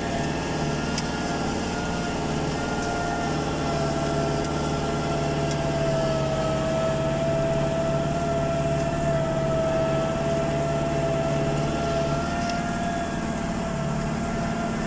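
SAME 100.4 tractor engine running steadily, pulling a three-furrow plough, with a steady high whine over the engine's hum.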